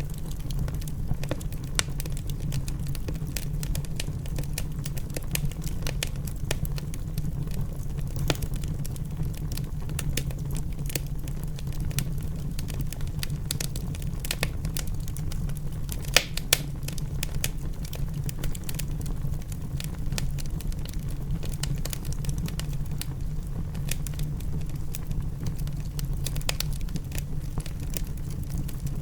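Wood fire crackling in a fireplace: frequent sharp pops and crackles over a steady low rumble, with a couple of louder pops about halfway through.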